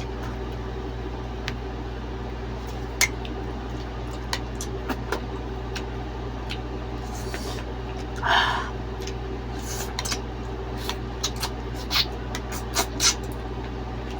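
Mouth sounds of someone eating: scattered sharp clicks and smacks and one short crunchy burst about eight seconds in, over a steady fan-like hum.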